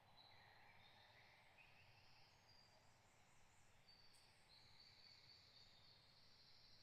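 Faint birdsong: a string of short, high-pitched chirps and trills from songbirds, over a soft background hush.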